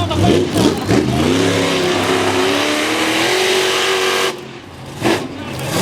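Mega truck's big engine revving hard, its pitch climbing steadily for about four seconds, then the throttle lets off suddenly and the engine comes back on near the end.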